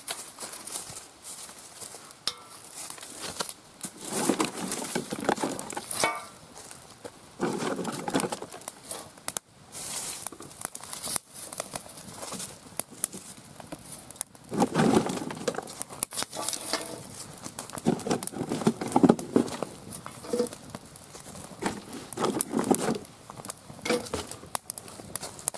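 Twigs and firewood being handled and snapped on a fire pit: irregular sharp clicks and cracks with rustling, coming in several louder bouts.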